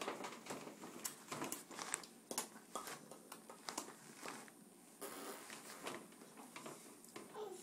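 Mouth popping noises: a string of short, irregular pops and clicks made with the lips and tongue, a few each second.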